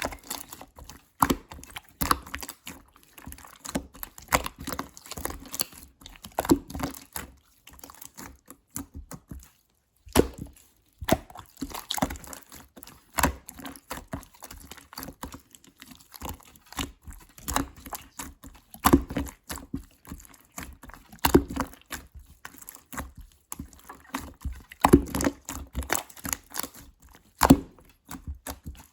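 Clear slime being squished and pressed by hand, making irregular wet clicks and pops, with a short lull about a third of the way in.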